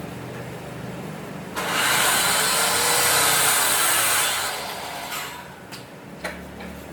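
A power tool in a woodworking shop gives a loud rushing noise for about three seconds, starting suddenly about one and a half seconds in and fading out, over a low steady hum. A few sharp knocks follow near the end.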